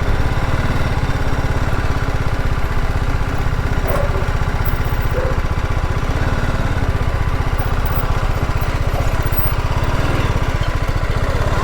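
Single-cylinder engine of a BMW G 310 GS motorcycle running steadily at low revs, with an even low-pitched putter.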